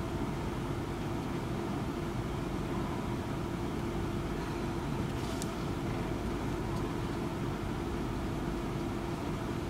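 Steady running noise inside a train carriage: a low rumble with a constant hum. A brief click about five seconds in.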